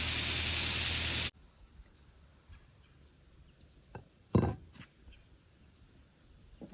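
A loud steady rushing noise with a low hum cuts off abruptly about a second in. A quiet background with a steady high insect chirring follows, and in it a few short knocks, the loudest a sharp thud a little after the middle.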